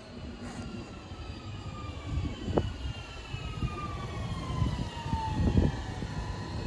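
A train passing, its whine falling slowly in pitch as it goes by, over a low uneven rumble that grows louder toward the end.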